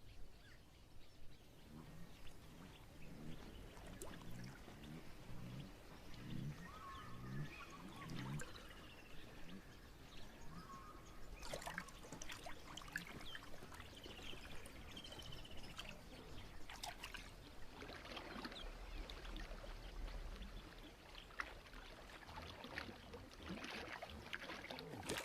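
Wild outdoor ambience with water trickling, scattered bird calls and other animal sounds. A run of repeated low calls sounds for several seconds near the start.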